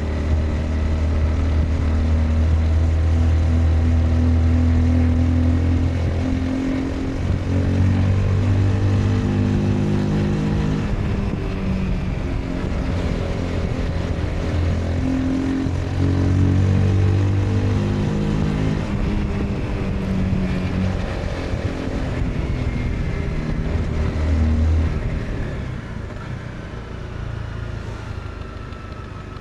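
Honda CBR 250R's single-cylinder engine running under way, its pitch stepping up and down several times with throttle and gear changes. It quietens near the end as the throttle is eased.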